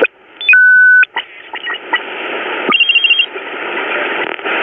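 Belka-DX shortwave receiver's loudspeaker between stations: a loud steady whistle of about half a second, a few clicks, then hiss with a quick run of short high beeps a little past the middle.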